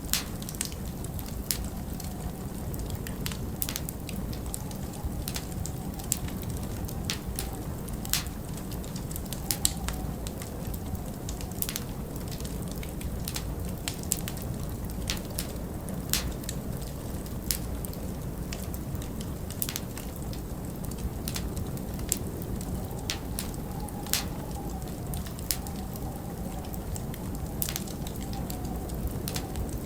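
Wood fire in a fireplace crackling, with irregular sharp pops over a steady low rush. A faint wavering wind howl rises and falls briefly around the middle and again near the end.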